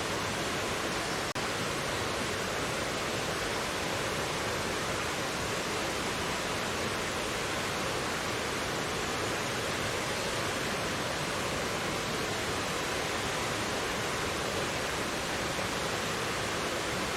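Mountain valley stream rushing steadily over rocks, an even wash of water noise, with a split-second dip in level about a second in.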